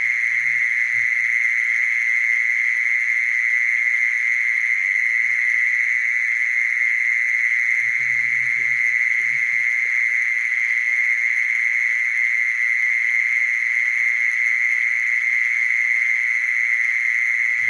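Mole cricket calling: one continuous, high, steady trill that keeps the same pitch and loudness without a break.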